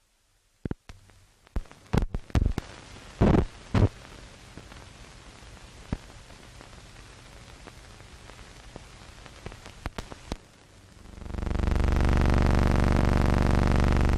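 Surface noise of an old film soundtrack: hiss with scattered sharp pops and clicks. About eleven seconds in, a loud steady buzzing hum with many overtones fades in, holds for about three seconds and starts fading near the end.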